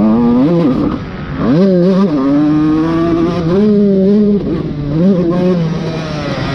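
Dirt bike engine revving hard, its pitch wavering and then climbing steeply about a second and a half in. It holds high for a couple of seconds, drops, and picks up again briefly.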